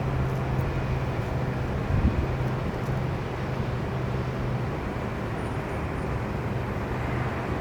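Jet airliner engines heard from a distance as a steady rumble, with a low hum that fades out about five seconds in.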